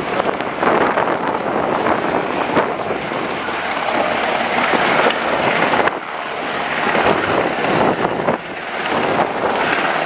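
Coast Guard helicopter hovering close overhead, its rotor noise mixed with heavy wind buffeting the microphone, with brief lulls about six and eight seconds in.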